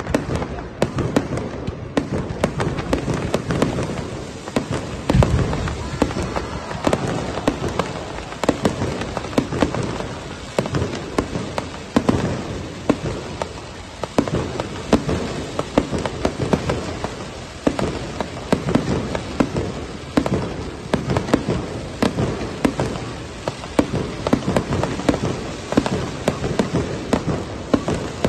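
New Year fireworks display: a continuous barrage of bangs, booms and crackling shells bursting in rapid succession.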